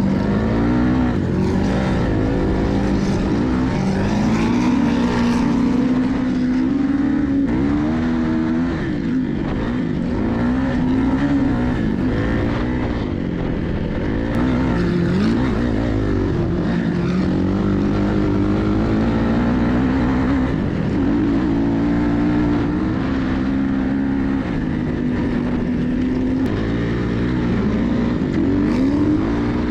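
450cc four-stroke single-cylinder dirt bike engine running under way, its pitch climbing and dropping again and again as the rider revs and shifts.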